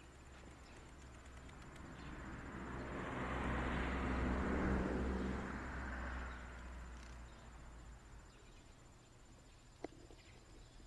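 A vehicle passing by: its engine and road noise swell over several seconds, peak about halfway through, then fade away. A single sharp click comes near the end.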